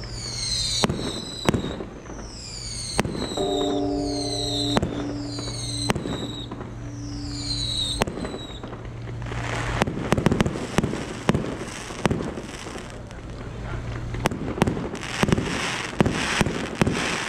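Fireworks: whistling rockets, each a falling whistle ending in a sharp bang, then from about ten seconds in a dense crackling barrage of many quick pops. A ringing tone sounds for a few seconds near the middle.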